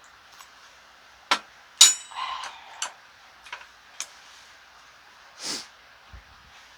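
Eating utensils clicking and clinking against dishes, over a steady soft hiss. The loudest is a single ringing metallic clink about two seconds in, followed by a brief scrape.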